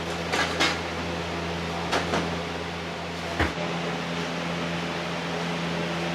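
Steady hum of a kitchen ventilation fan, with a few light knocks and clinks in the first few seconds.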